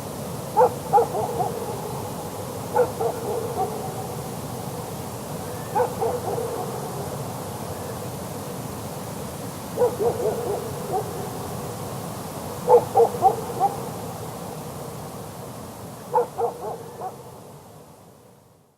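A dog barking far off, about four miles away across the mountains, giving six short bursts a few seconds apart. In each burst a strong first bark is followed by weaker repeats that die away like echoes. A steady hiss lies underneath and fades out near the end.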